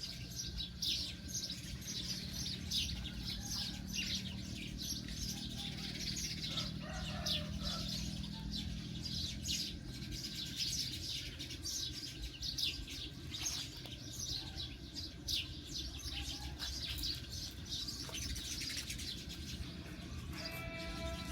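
Many small birds chirping in quick, short calls, thick and continuous, over a low steady hum that fades out about halfway through.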